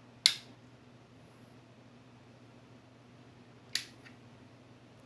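Two sharp clicks, the first about a quarter second in and louder, the second about three and a half seconds later with a faint tick just after it, over a low steady hum.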